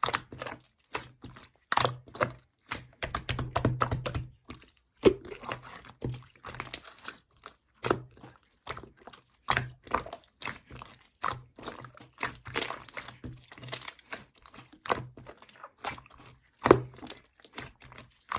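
Clear slime being squeezed and pressed by hand, making an irregular run of sticky clicks and pops, with a few louder squelches.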